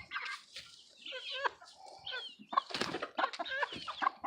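Several chickens clucking and calling in quick, short, overlapping calls.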